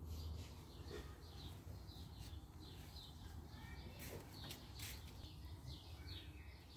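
Songbirds chirping in the background: a steady series of short, high chirps, about two a second. Two sharp clicks come around four and five seconds in.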